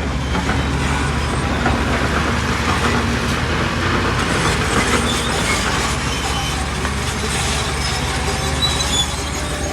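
Heavy diesel earthmoving machinery running steadily, with metallic clanking and faint squeals like steel crawler tracks working over rock.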